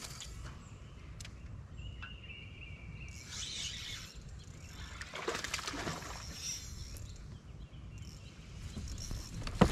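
Birds calling, short chirps over a steady low rumble, with a single sharp knock near the end.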